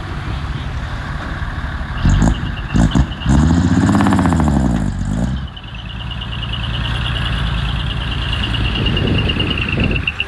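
Diesel engine of heavy earthmoving equipment running under load. A few sharp clanks come about two seconds in, then the engine revs up and falls back. A high, fast-pulsing squeal runs through the second half.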